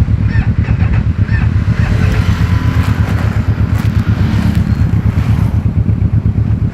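Aprilia RSV4's V4 engine running through an aftermarket Austin Racing GP2R exhaust, with a deep, steady pulsing note and some wind on the microphone.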